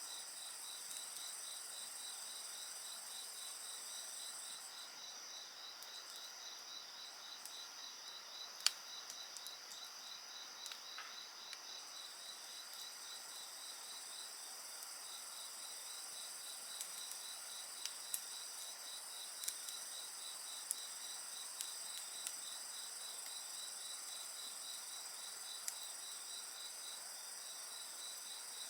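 A chorus of singing insects trilling steadily at several high pitches, one of them a fast pulsing trill. The highest trill drops out about five seconds in and returns about seven seconds later. Over it a wood fire crackles with occasional sharp pops, the loudest about nine seconds in.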